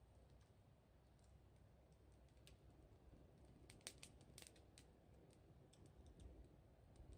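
Faint crackling of a wood fire: scattered small pops and snaps, a quick cluster of them about four seconds in, over a low background hum.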